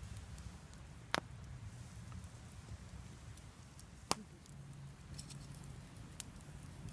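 Wood fire crackling, with a few sharp pops: one about a second in, one about four seconds in and a fainter one near the end, over a low steady rumble.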